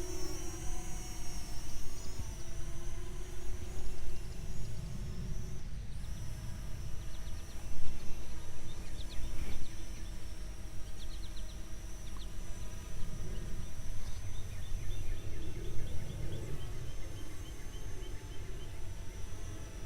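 Parrot Anafi quadcopter hovering, its propellers giving a steady hum and whine that holds one pitch, over a gusty low rumble of wind on the microphone.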